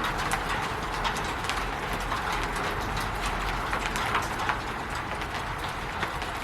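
Rain falling steadily on a roof: an even rushing patter with irregular, sharper taps of single drops and drips striking, several a second.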